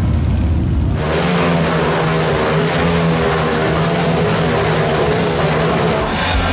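Motorcycle engine running and revving, after a low rumble that gives way abruptly to it about a second in.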